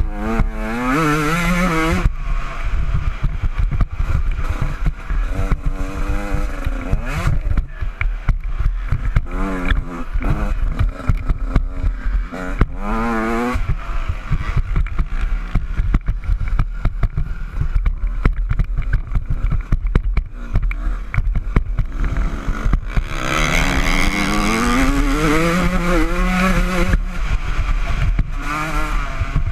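Honda CR125 two-stroke motocross engine revving up and falling off again and again as the bike is ridden around a dirt track, with the pitch climbing in rising sweeps on each burst of throttle. Heavy low wind rumble and a rattle of clatter from the bike run underneath.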